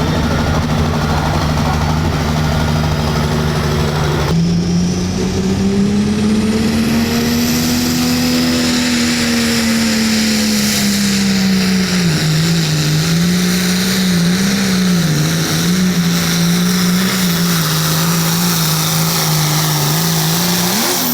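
Turbocharged diesel engine of a Hot Farm pulling tractor at full throttle under sled load. Its pitch holds steady, shifts abruptly about four seconds in, climbs, then sags and wavers up and down through the second half.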